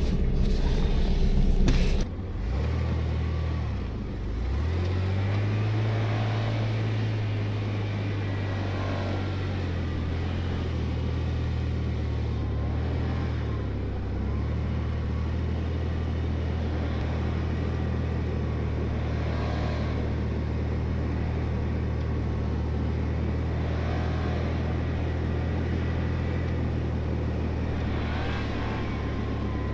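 Blazer recovery rig's engine pulling in low range, its pitch rising about four seconds in and then holding steady.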